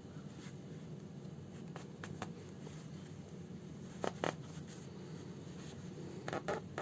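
Faint handling sounds from hand-sewing a house slipper with needle and thread: a few light, sharp clicks and rustles, two close together about four seconds in and two more near the end, over a steady low room hum.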